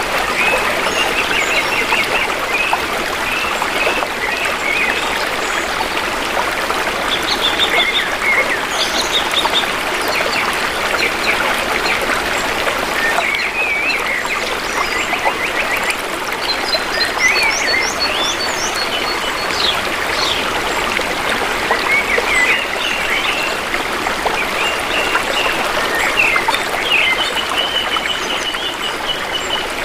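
Shallow river water flowing steadily, with forest birds chirping and calling throughout and a rapid trill near the end.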